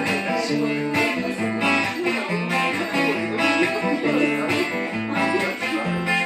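Acoustic guitar playing the instrumental introduction of a song, with plucked chords over a moving bass line.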